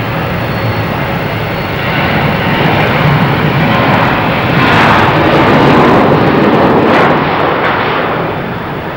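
Jet airliner's engines heard as it passes the airport: a broad rushing noise that builds to its loudest about five to seven seconds in, then starts to fade.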